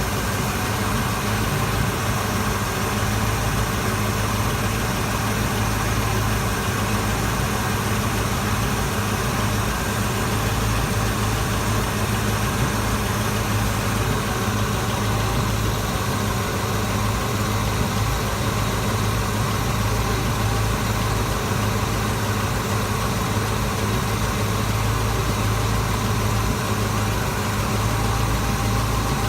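Vehicle engine idling steadily, its exhaust leaking.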